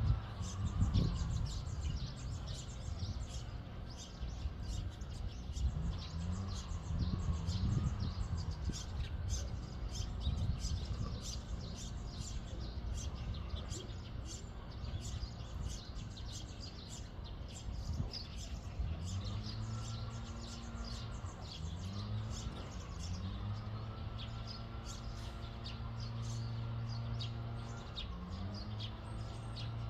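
Many small birds chirping continuously over a low droning hum that several times rises in pitch and then holds steady. There is a brief low thud about a second in.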